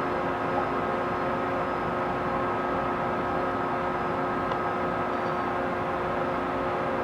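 Lathe running steadily, turning a large pot-bearing part: an even mechanical noise with several steady hum tones held throughout.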